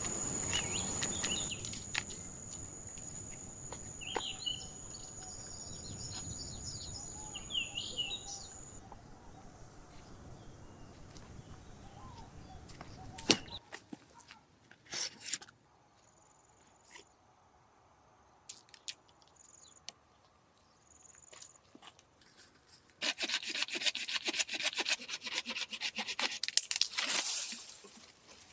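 Outdoor ambience with a steady high insect trill and a few bird chirps. Later come scattered clicks and short high notes, and near the end several seconds of dense crackling and rubbing, like wood being handled or worked.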